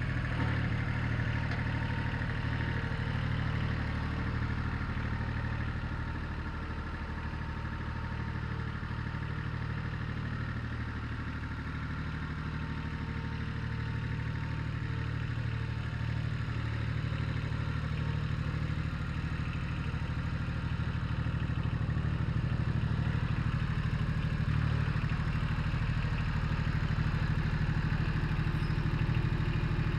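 Satoh Mitsubishi compact tractor's engine running steadily; it gets a little quieter several seconds in and picks up again in the second half.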